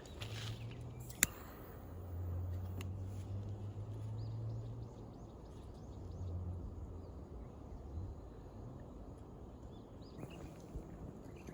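Faint bird chirps over a quiet outdoor background, with a low hum that comes and goes and one sharp click about a second in.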